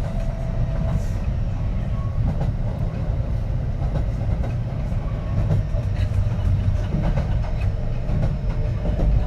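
Kintetsu 3220 series electric train running, heard from inside the car: a steady low rumble of wheels on rail with occasional faint clicks from the track and faint steady tones.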